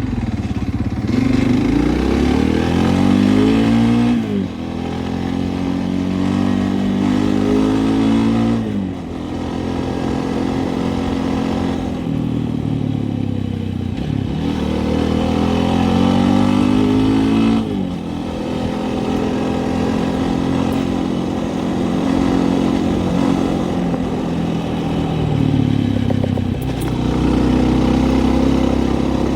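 Motor vehicle engine revving hard again and again: each time the pitch climbs over a few seconds, then drops sharply as the throttle is let off, about five times.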